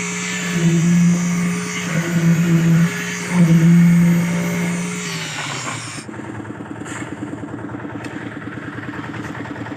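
An engine-driven machine on a concrete casting site runs steadily with a strong hum. About five seconds in the pitch falls away, and it settles into a lower, fast, even chugging like an engine idling.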